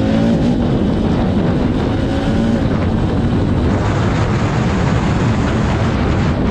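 Hero Mavrick 440 motorcycle being ridden: its 440cc single-cylinder engine pulls with a slightly rising note at the start, then blends into a steady rush of engine, wind and road noise.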